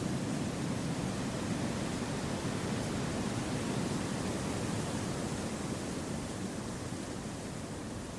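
Steady wind rushing through forest trees: an even, low-weighted noise with no distinct events, easing slightly near the end.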